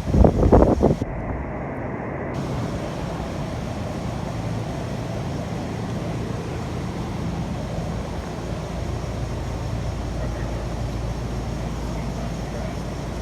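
A 1979 International Harvester Scout II running steadily with a low, even engine drone, after a few loud thumps in the first second.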